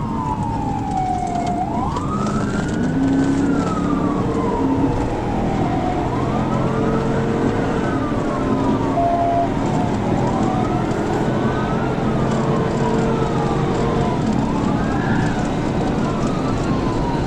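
Police car siren wailing in slow rising and falling sweeps, repeating every few seconds, over steady engine and road noise.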